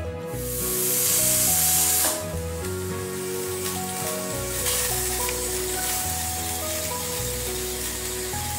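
Prestige pressure cooker venting steam through its weight valve. A loud hiss lasts about two seconds, then a softer hiss carries on: the whistle that shows the cooker has come up to pressure. Background music plays under it.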